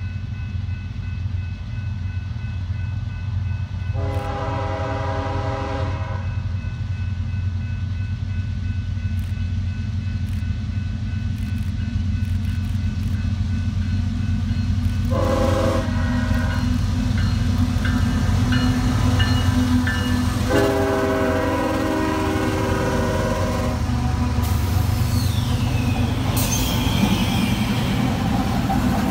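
A locomotive's multi-chime air horn sounds three times, a long blast, a short one and a long one, over the steady low rumble of the train as it draws closer. A high falling squeal follows near the end.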